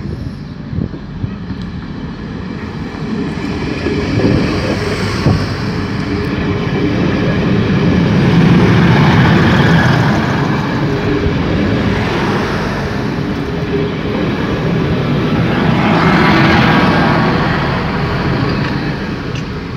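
TCDD diesel multiple unit passing close at speed: diesel engine drone mixed with the rumble of wheels on the rails. It swells loud twice, about halfway through and again near the end, before easing.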